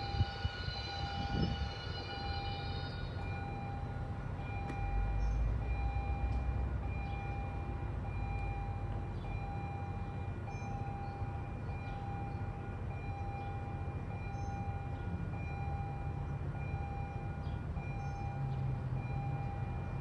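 Diesel commuter-rail locomotive running steadily with a low rumble and a thin steady whine, swelling for a couple of seconds partway through. A horn chord fades out in the first few seconds.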